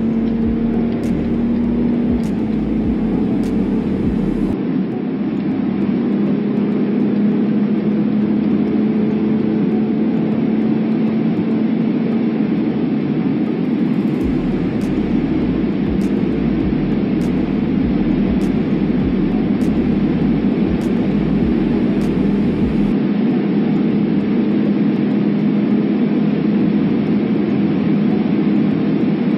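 BMW M340d's twin-turbo 3.0-litre straight-six diesel running at high speed under load, a steady engine drone buried in heavy wind and tyre noise. The drone drops slightly in pitch about two seconds in.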